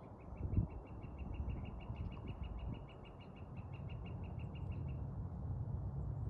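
A bird singing a dry, even trill of rapid high notes, about eight a second, which stops about five seconds in. Under it runs a low steady rumble.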